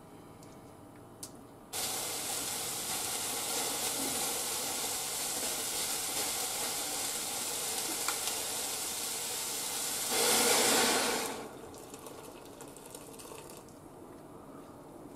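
Vegetables sizzling in a hot stainless saucepan as they are stirred with chopsticks. The sizzle starts abruptly about two seconds in, swells into a louder hiss for about a second near ten seconds in, then dies down.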